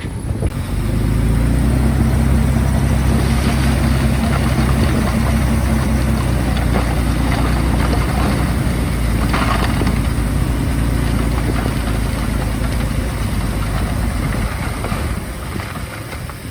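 Diesel engine of a Komatsu D51PX bulldozer running steadily under work. It grows louder about a second in and eases off near the end.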